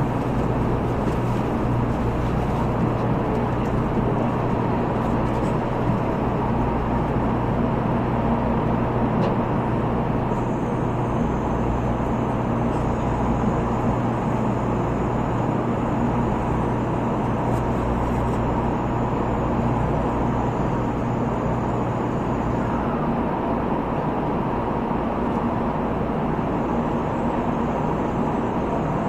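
Steady rumble and rushing noise inside the cabin of an N700A Shinkansen train in motion. A low hum under the noise fades out about two-thirds of the way through.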